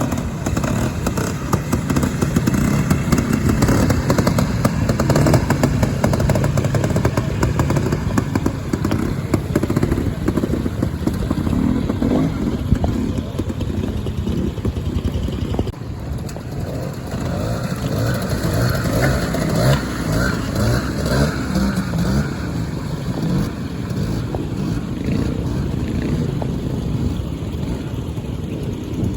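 Trials motorcycle engine running at low revs, with the throttle opening and closing as the bike works slowly through an observed section. There is a short break about halfway, then the engine sound goes on.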